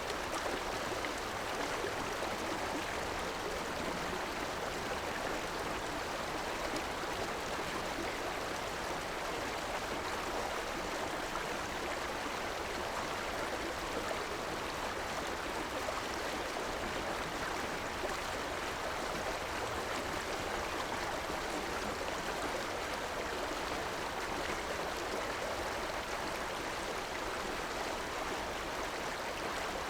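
River water flowing and rushing steadily, an even, unbroken wash of sound.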